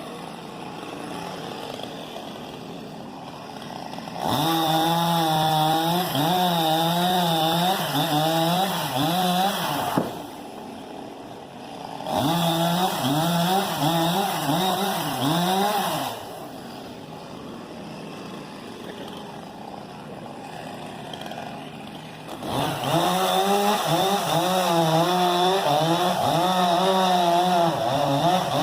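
Chainsaw cutting through a fallen coconut palm trunk. It revs hard under load in three spells of a few seconds each, the pitch wavering as it bites, and drops back to idle between them.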